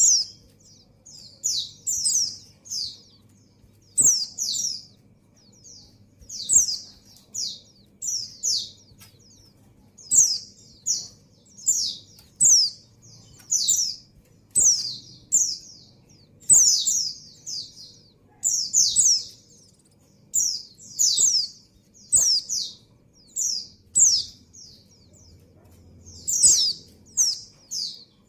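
Female white-eye (pleci) calling continuously with short, high, downward-sweeping chirps, mostly in pairs and triplets about once a second. It is the call a female in breeding condition gives to draw males.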